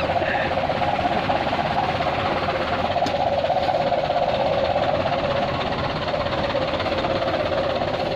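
Mitsubishi Colt Diesel 120 PS dump truck's four-cylinder diesel engine running steadily, a fast, even clatter over a constant mid-pitched drone.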